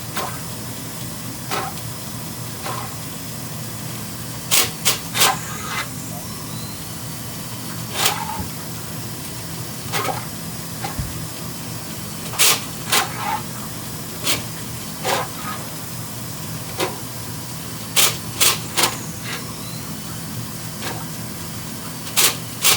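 Electric flexible-wire drain cleaner (Flexi Rodder FRE) running with a steady motor hum while clearing a clogged drain, broken by sharp knocks at irregular intervals, several in quick clusters of two or three.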